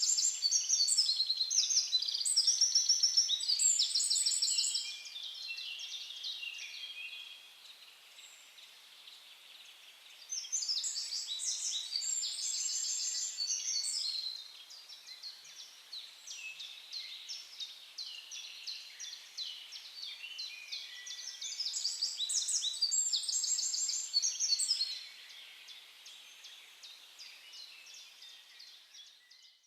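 A songbird singing a long, fast, trilling song of rapid repeated notes, three times about ten seconds apart, with softer chirps in between.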